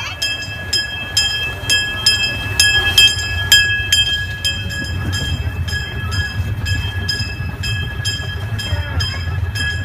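Miniature steam train running, with a steady low rumble and a regular clicking about three times a second over a few steady high-pitched tones.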